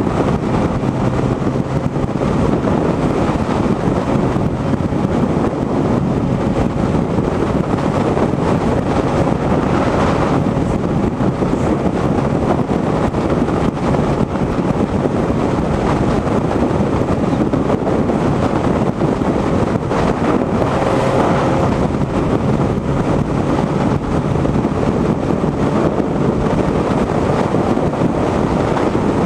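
Motorcycle riding at a steady speed: wind rushing over the microphone, with the engine's steady drone underneath.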